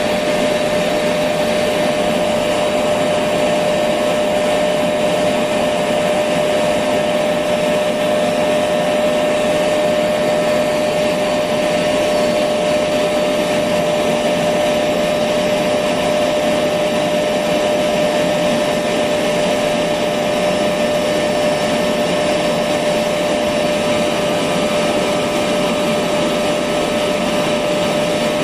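Electric vacuum cleaner running steadily: an even motor whine with a strong steady hum-like tone and airflow hiss, no change in speed.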